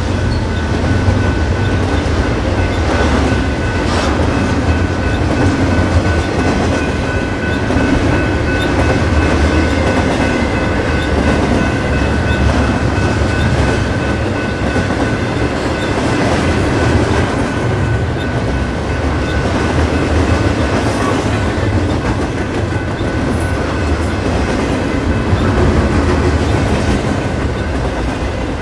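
A train rolling past at close range: a steady low rumble with wheels clicking over rail joints, and a faint steady high-pitched whine from the wheels on the rail.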